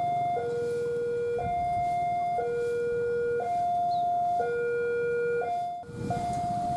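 Railway level-crossing warning alarm sounding a steady two-tone hi-lo signal, the high and low notes alternating about once a second: a train is approaching. The alarm breaks off briefly near the end and starts again, over a low background rumble.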